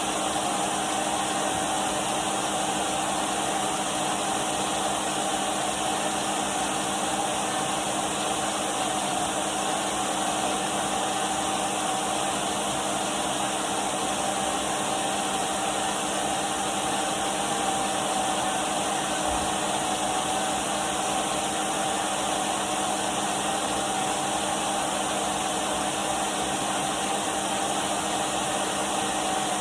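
Numatic Henry canister vacuum cleaner running steadily: an even rush of air with a steady motor whine over it, unchanging throughout.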